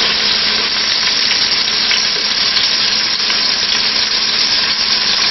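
Beef roast searing in hot oil in a pressure cooker pot, sizzling steadily with dense crackle as the meat browns.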